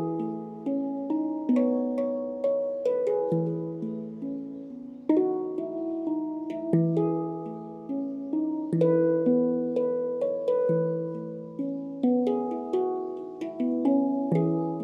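Handpan played by hand: a flowing melodic pattern of struck steel notes, each beginning with a sharp tap and ringing on to overlap the next.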